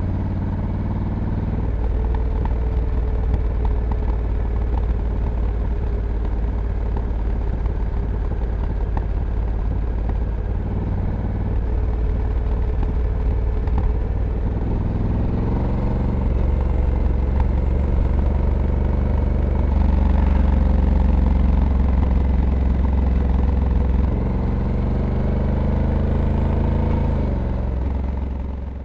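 Engine of a 2022 Honda Africa Twin DCT, a 1084 cc parallel twin, running under way and heard raw from the bike. The revs and level rise about halfway through and again around twenty seconds in. The revs fall near the end, and the sound then fades out.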